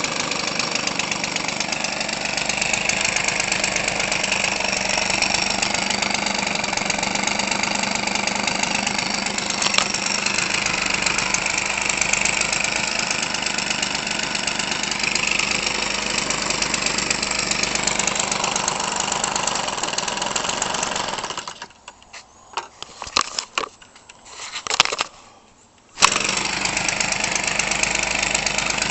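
Weed Eater Featherlite 25cc two-stroke engine, converted for an RC airplane, running steadily with a propeller through its stock muffler. About three quarters of the way in it drops away for roughly four seconds, broken by a few short sharp sounds, then runs again.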